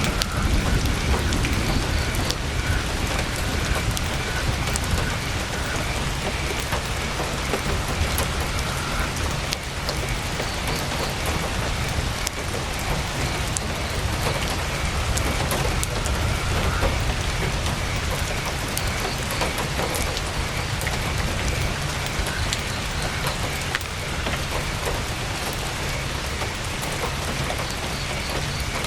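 Heavy rain drumming steadily on tent fabric, a dense even patter with a deep low rumble, with scattered sharp crackles from a campfire.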